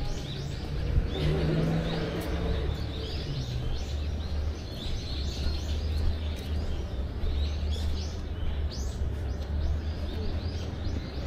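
Many small birds chirping, short high calls repeating all through, over a steady low rumble.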